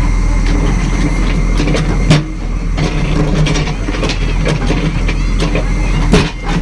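Construction machine engine running steadily under a busy clatter of small metallic knocks, with two sharp loud knocks about two seconds in and near the end.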